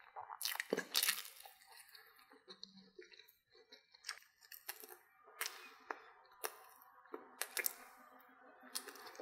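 Close-up chewing and biting of a corn dog: sharp crunches of the fried cornmeal batter as it is bitten off the wooden stick, loudest in a quick cluster about half a second to a second in, then single crunches every second or so.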